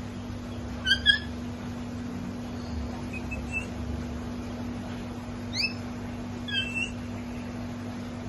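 African grey parrot giving short whistled chirps: a quick double chirp about a second in, a faint one around three and a half seconds, a rising whistle around five and a half seconds and another double chirp near seven seconds, over a steady low hum.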